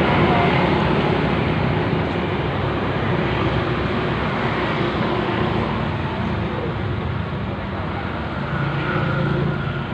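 Steady rumble of a vehicle on the move, as of road and engine noise from a car.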